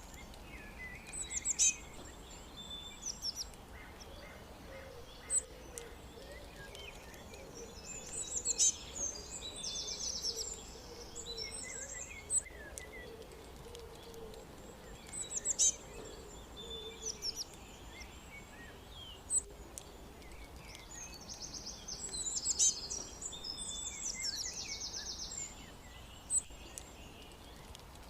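Several songbirds chirping and trilling over a steady background hiss, with short sharp calls scattered throughout and longer rapid trills around ten seconds in and again near the end.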